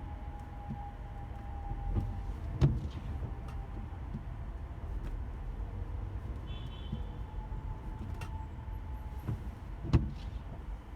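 Car driving slowly in light rain, heard from inside: a steady low rumble of engine and tyres with a faint steady whine. Two sharp knocks, each with a low thump, come about three and ten seconds in.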